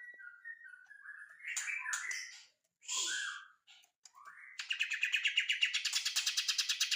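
Cucak ijo mini, a small leafbird, singing: a string of varied chirps and short whistled phrases, then, about four and a half seconds in, a loud fast rattle of repeated notes, about eight a second.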